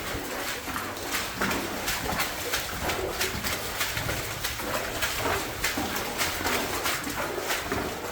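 Boots splashing and sloshing through standing water in a flooded mine drift, in quick irregular steps.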